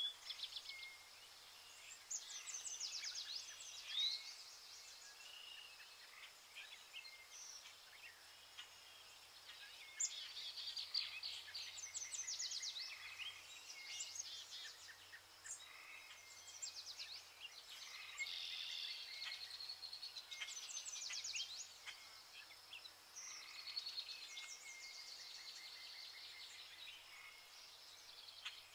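Songbirds singing short phrases with fast high trills, repeated every few seconds, with a faint steady low hum underneath.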